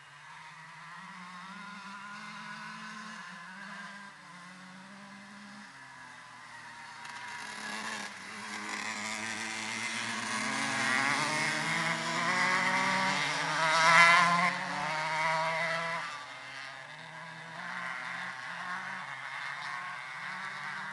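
125cc two-stroke motocross bike engines revving up and down as they ride, growing louder to a peak about two-thirds of the way through as a bike passes close, then falling away.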